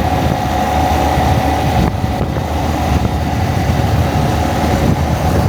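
Honda Monkey motorcycle riding along the road, its single-cylinder four-stroke engine running steadily under a heavy rush of wind on the microphone.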